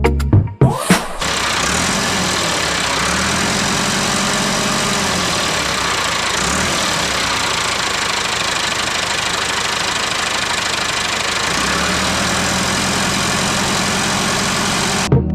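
A small motor running steadily with a dense, even whirring noise. It starts after a few clicks about a second in and cuts off suddenly just before the end.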